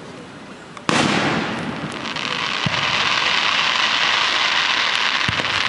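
Fireworks display: a shell bursts with a sudden loud bang about a second in, followed by a dense, steady crackle of many small pops, with a couple of low thuds of further shells.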